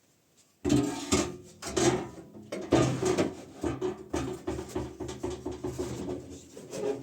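A hand tool rasping on wood in repeated strokes, starting about half a second in and quickening after the first few seconds.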